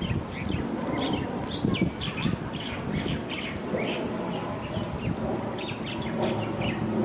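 Small birds chirping, many short high chirps in quick succession, over a steady low rumble of background noise.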